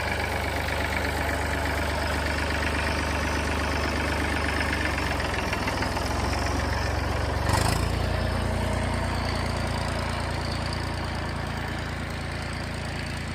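Old Massey Ferguson tractor engine running steadily, with one sharp clunk a little past halfway, after which the engine note changes.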